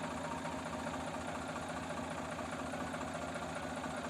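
Tractor diesel engine running steadily with an even, fast chugging pulse.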